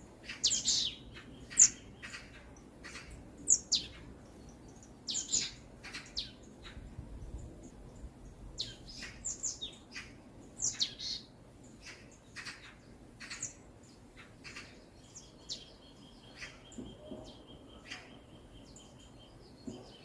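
Several songbirds chirping in short, quick, high notes scattered throughout, over a faint background hiss. Near the end a thin, steady high note is held for a few seconds.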